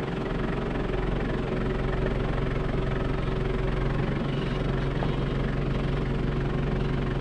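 Four-wheel-drive vehicle's engine running steadily with an even, low drone.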